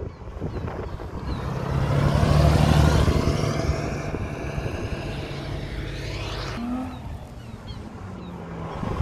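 Classic Porsche 911's air-cooled flat-six driving past. The engine note swells as the car approaches, is loudest a couple of seconds in, then falls in pitch and fades as the car pulls away, and cuts off abruptly about two-thirds of the way through.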